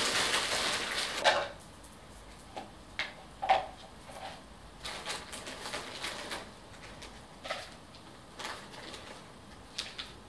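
Peat potting soil being put into a plant pot: a rushing pour for about the first second and a half, then scattered soft rustles and light taps as it is added and settled.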